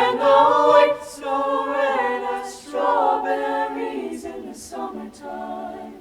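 High school choir singing a cappella, several voices in harmony with no instruments; the phrase tapers off and ends near the end.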